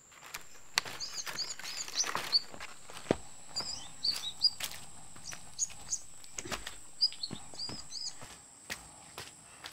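Wild bird chirping in short runs of quick high notes, four or five times, over a steady high-pitched whine. Footsteps crunch on dirt and leaf litter throughout and make the loudest sharp clicks.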